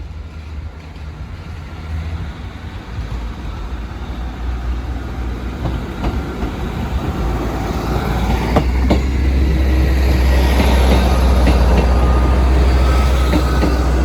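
Class 158 diesel multiple unit approaching and passing: a low engine and wheel rumble that grows steadily louder, peaking about ten seconds in, with a few sharp clicks about six to nine seconds in.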